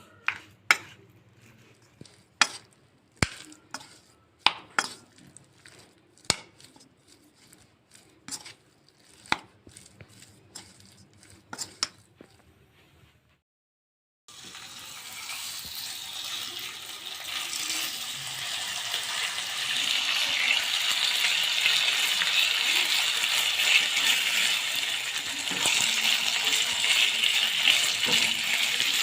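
Kitchen utensils knocking and clinking against a bowl or board, in single irregular strokes. After a short gap, food frying in a pan: a steady sizzle that builds up louder over a few seconds and keeps going.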